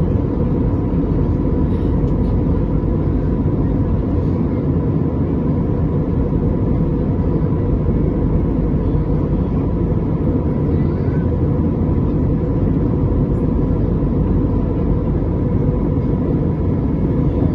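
Steady low rumble of vehicle travel noise, unchanging throughout, with a faint steady hum above it.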